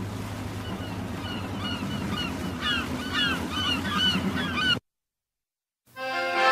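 Birds calling over and over, short curved calls that come more often as it goes on, over a low steady hum. The sound cuts off abruptly, and after about a second of silence music begins.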